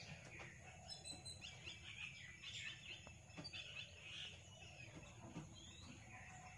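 Faint chirping of small birds: many short calls, several a second, some rising or falling, over a low steady hum.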